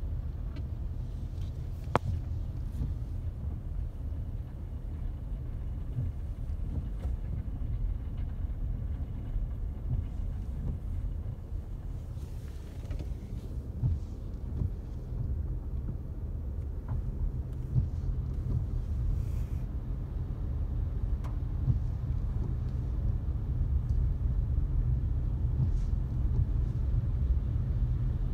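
A car driving slowly, heard from inside the cabin as a steady low rumble, with a few faint knocks.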